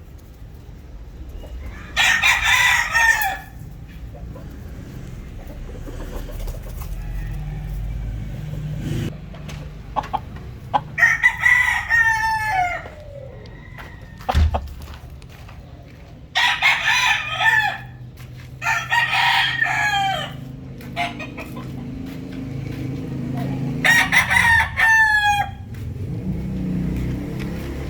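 Gamecock roosters crowing: five crows spread across the stretch, each about a second and a half long and falling in pitch at the end. A low steady rumble runs underneath.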